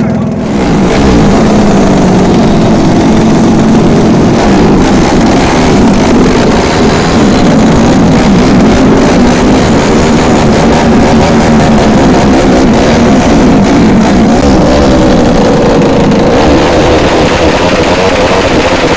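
Drag-racing motorcycle engines revving hard and loud, the pitch rising and falling again and again.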